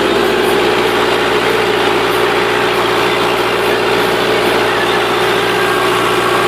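Rakovica 65 tractor's diesel engine running steadily at constant speed while pulling a plough in shallow stubble ploughing.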